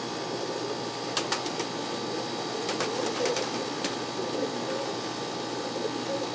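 Tippler pigeons cooing in their loft, with a few sharp clicks about a second in and again around three to four seconds in, over a steady background hiss.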